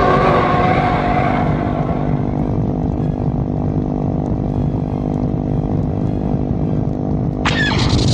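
Honda CBR400R parallel-twin engine with a Moriwaki Blade aftermarket muffler, idling steadily with an even exhaust rumble. A higher sound fades out over the first couple of seconds, and near the end a sudden high-pitched shriek cuts in over the idle.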